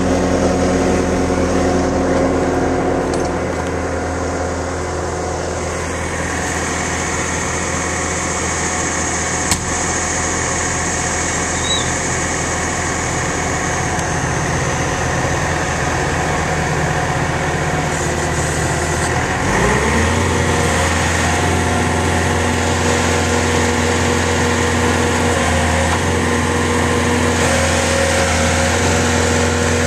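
Diesel engine of heavy equipment running steadily; about twenty seconds in its speed rises quickly and it holds at a higher, steady pitch.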